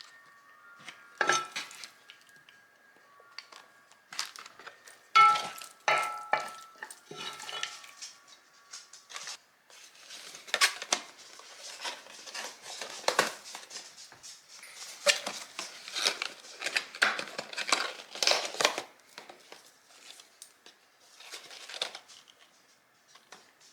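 Cutlery clinking and scraping on plates during a meal. Sharp ringing clinks come first, then denser scraping and rattling, which thins out near the end.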